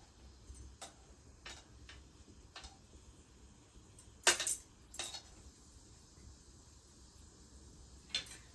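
Kitchen utensils knocking and clinking against metal cookware: a few light clicks, then a louder double clatter about four seconds in and another knock a second later.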